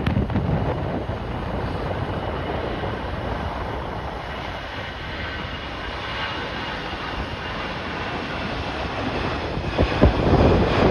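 Jet airliner engines running, a steady rushing noise with a faint high whine, with gusting wind on the microphone growing louder near the end.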